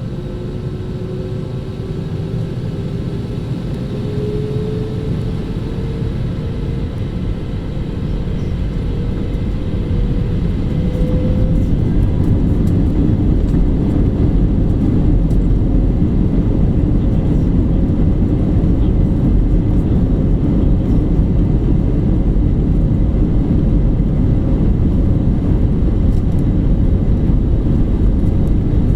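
Jet airliner's engines spooling up for takeoff: a rising whine climbs over the first dozen seconds as the sound grows louder. It then settles into a steady, loud low rumble of takeoff thrust and the runway roll.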